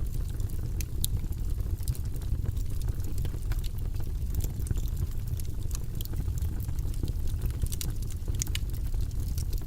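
Fire in a fireplace crackling, with many sharp, irregular pops and snaps over a steady low rumble of the flames.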